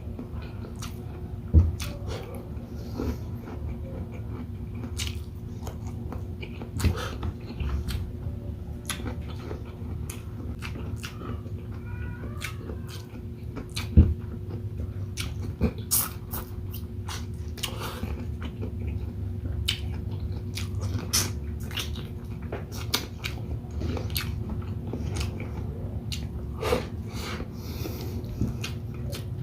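Close-miked eating: irregular chewing, biting and lip-smacking clicks as shrimp and squid in coconut sauce are eaten with rice, over a steady low hum.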